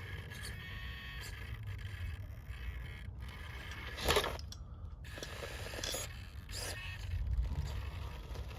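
Electric RC rock crawler with a Hobbywing QuickRun motor and ESC driving over rough ground, its motor and drivetrain running under a low rumble of wind on the microphone. About four seconds in there is a louder scrape as the chassis or tires drag over the terrain.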